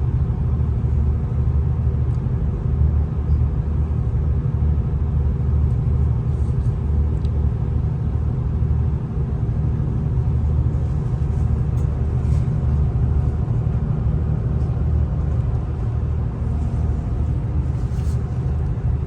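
Steady low rumble of a V/Line diesel passenger train running along the line, heard from inside the carriage, with a few faint ticks.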